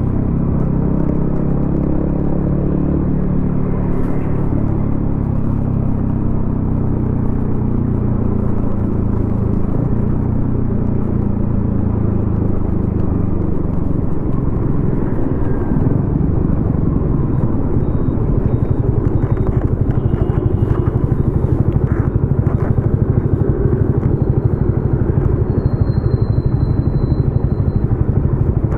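Yamaha XSR155's single-cylinder engine running through a homemade aftermarket exhaust, heard from the rider's seat while riding in traffic. The engine note rises and falls in pitch through the first half, then settles into a steadier, slightly louder pulsing note about two-thirds of the way in.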